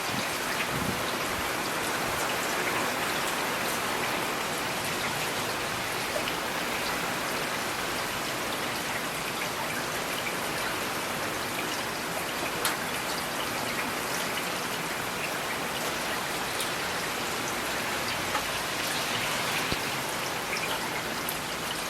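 Steady rain falling, with now and then a single louder drop ticking on a surface.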